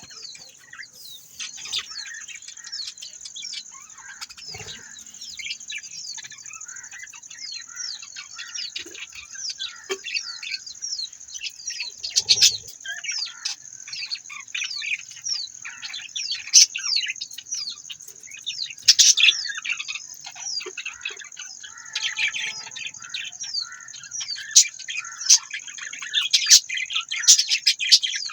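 A group of budgerigars chirping and chattering: a dense, continuous stream of short, quick, downward-sliding chirps over a steady high twitter, with louder calls standing out now and then.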